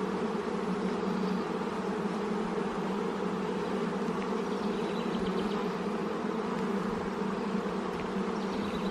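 A honeybee colony buzzing steadily around an opened hive during a frame inspection, a constant, even hum.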